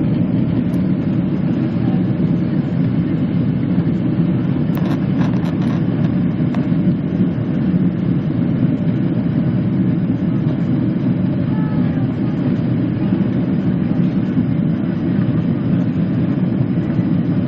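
Steady low rumble of a jet airliner's engines and airflow heard from inside the passenger cabin, holding an even level.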